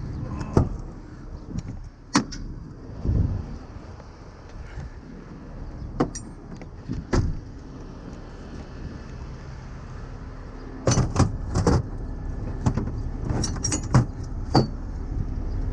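Truck engine idling with a steady low rumble, under scattered sharp metal clanks and clinks of towing gear being handled, coming thick and fast near the end.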